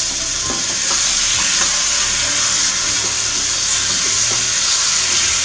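Mashed potato and tomato-onion masala sizzling steadily in an oiled non-stick kadai while being stirred with a wooden spatula, with a few light spatula scrapes in the first second.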